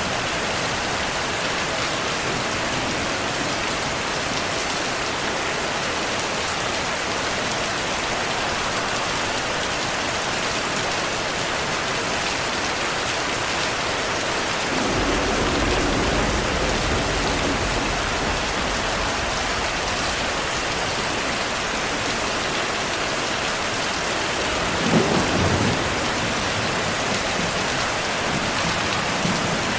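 Steady heavy rainfall, with a low thunder rumble rolling in about halfway through and a sharper, louder thunderclap near the end.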